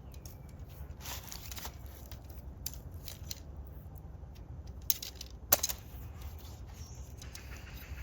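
Rustling and several sharp clicks and snaps over a low steady rumble, the loudest click about five and a half seconds in.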